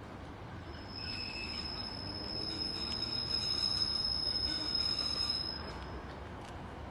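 A Class 150 Sprinter diesel multiple unit arriving at a platform: a steady high-pitched squeal from its running gear as it slows, over a low rumble. The squeal cuts off suddenly near the end while the rumble carries on more quietly.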